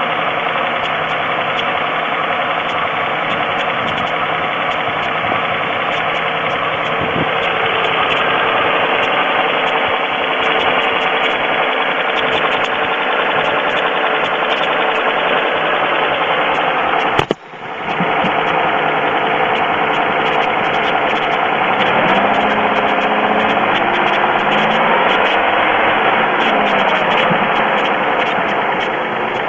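2002 Pontiac Grand Am's 3.4-litre GM V6 running steadily with a repeated ticking knock, which the owner suspects is piston slap. The sound drops out for a moment a little past halfway.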